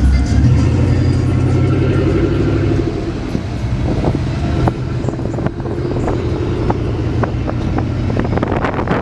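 A motor vehicle's engine running steadily, louder for the first few seconds and then settling a little lower, with a few scattered clicks and knocks.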